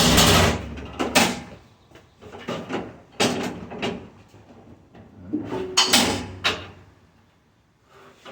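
Clattering and scraping of stainless steel dishwasher parts being handled and set down. The noise comes in several loud bursts: at the start, about a second in, around three seconds and again around six seconds, with quieter rubbing between.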